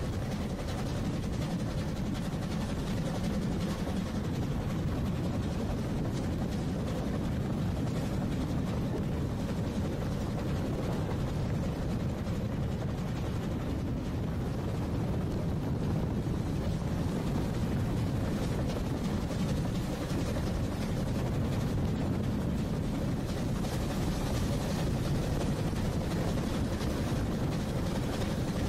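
Ōigawa Railway train running along the line: a steady low rumble of wheels and running gear on the track, unbroken throughout.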